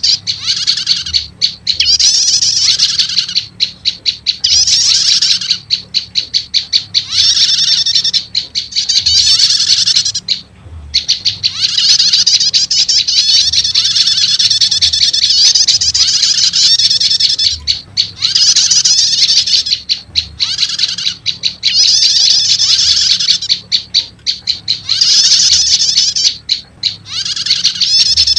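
Lure recording of prenjak lumut calls combined with prenjak 'starter' calls: loud, rapid, high-pitched chattering trills in phrases of one to two seconds, separated by brief breaks, over a faint low hum.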